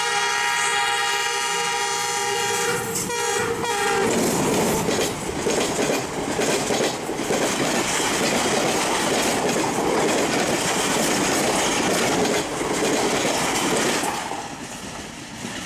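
Pakistan Railways ZCU-20 diesel-electric locomotive sounding one long horn blast for about four seconds as it approaches. The express train then passes close by at about 85 km/h, its locomotive and coaches rushing past for about ten seconds until the noise drops away near the end.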